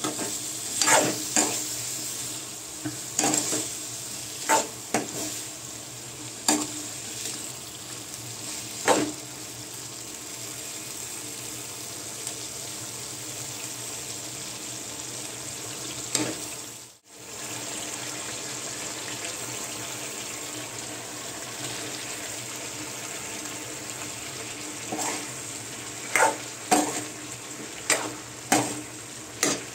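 Food sizzling in a hot pan while a spoon stirs it, knocking and scraping against the pan in runs of strokes during the first nine seconds and again near the end. Between them only the steady sizzle is heard, and it drops out for an instant a little past halfway.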